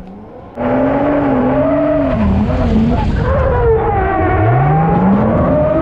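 Toyota Soarer drift car's engine revving hard while driven through a gymkhana course, heard from a camera on its boot lid. It cuts in suddenly about half a second in, and the revs climb and fall again and again, with a steep climb a little after the midpoint.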